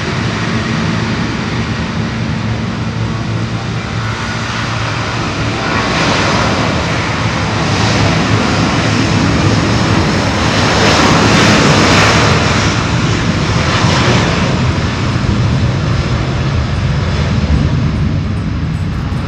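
Airbus A330-223's twin Pratt & Whitney PW4000 turbofans at takeoff power, a loud jet rush that builds to its peak about eleven seconds in, then eases slightly.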